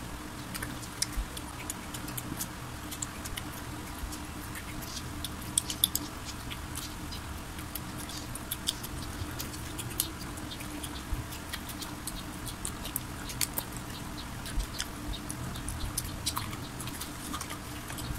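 Close-miked chewing of crispy fried chicken: irregular crunches and small wet clicks of the mouth, over a steady low hum.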